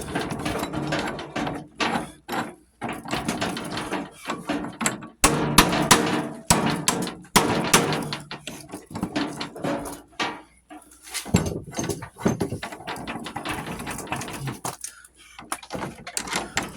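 Irregular metal knocks and clanks of hand tools working on the old lawn tractor's stuck parts, with scraping between the strikes and the loudest strikes about five to six seconds in.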